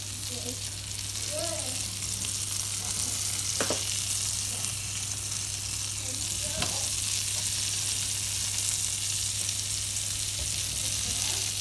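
Syrniki (cottage-cheese pancakes) sizzling steadily as they fry in vegetable oil in a frying pan, with two light clicks of the spatula against the pan as they are turned over.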